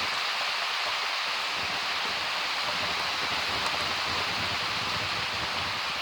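Steady rain in a summer storm, an even hiss of heavy rainfall with no thunder.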